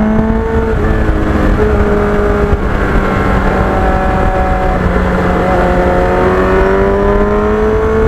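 Kawasaki Ninja motorcycle engine running while under way, its pitch dipping and then rising gradually toward the end, over heavy low wind rumble.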